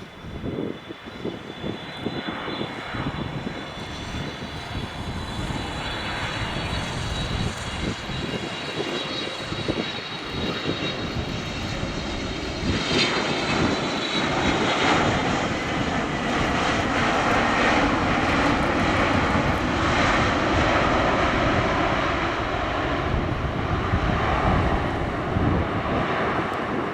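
Boeing 777 freighter's twin GE90 turbofan engines on its landing run, a high whine with a jet rush that grows louder, stepping up about halfway and then holding steady.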